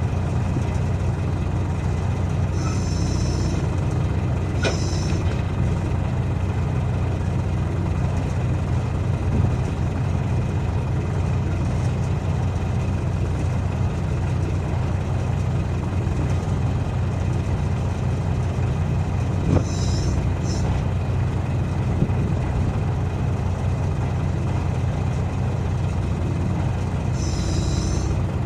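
Heavy diesel engine running steadily at idle, with a few short hisses of air.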